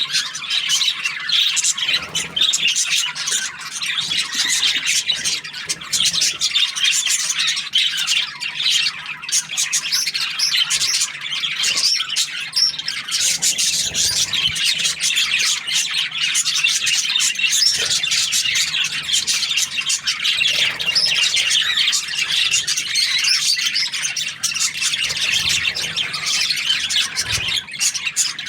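Budgerigars (parakeets) chirping and chattering without a break, a dense stream of quick high squawks and tweets.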